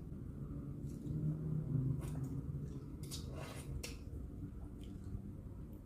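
Quiet eating sounds: a few soft clicks and short noisy bursts from chewing and utensils, over a steady low room rumble, with a brief low hum about a second in.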